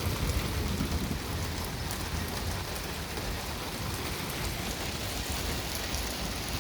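Rain of a thunderstorm falling steadily on hard surfaces, with a low rumble underneath during the first few seconds.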